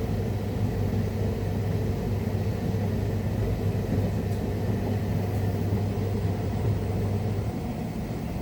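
Rex-Electrolux Jetsy Talkie washing machine running mid-cycle: a steady low motor hum over rumbling from the drum. The hum drops away about seven and a half seconds in, leaving the rumble.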